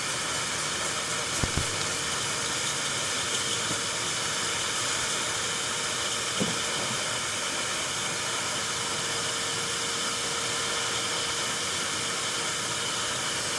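Shop vac blowing air into the car's exhaust: a steady rushing hiss with a faint steady whine, pressurising the exhaust so the leak at the manifold joint shows in soapy water. Two brief knocks, about a second and a half in and again about six seconds in.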